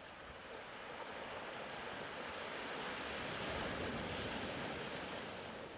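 Soft ocean surf: one slow wave swells in, peaks just past the middle, then ebbs away.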